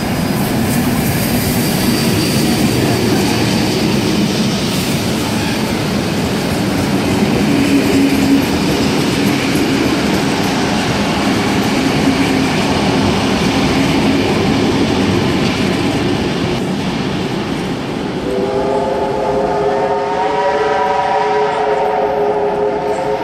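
Heritage passenger train rolling past on the rails: its carriages and a trailing diesel locomotive make a loud, steady rumble with wheel clatter. About 18 seconds in, a train horn starts and sounds one long, steady multi-tone note that is still going at the end.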